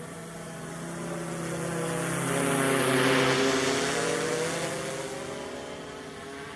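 Yuneec Typhoon Q500 4K quadcopter's propellers buzzing, swelling to a loud peak about halfway through and then fading, with the pitch bending as it passes close by.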